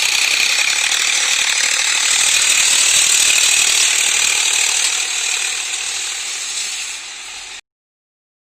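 Loud, dense mechanical rattling and clatter from a harrow being pulled through the field by a Solis 5015 tractor. It eases a little near the end, then cuts off abruptly.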